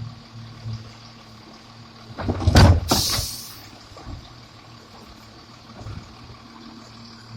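Garbage truck engine running steadily at idle. About two and a half seconds in comes one loud clunk, followed at once by a short hiss of air.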